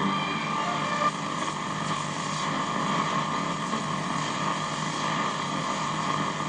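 A steady rushing hiss at an even level, strongest in the middle range.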